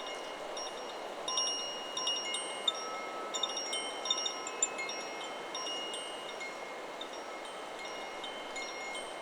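Chakra Chimes 'Solar Plexus' wind chime ringing in the wind, its tubes struck in a quick cluster of several notes early on, then ringing more sparsely. A steady rush of wind runs underneath.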